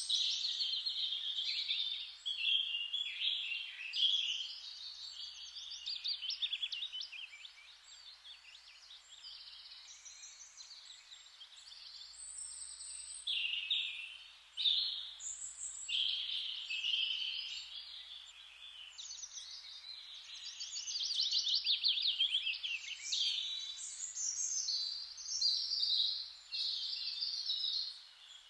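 Several songbirds singing at once, a dense chorus of chirps and rapid trills that swells and eases in bouts, over a faint steady hiss.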